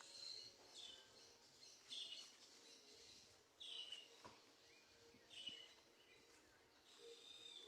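Wild birds singing faintly: short, high chirping phrases, one every second or two, over a light background hiss.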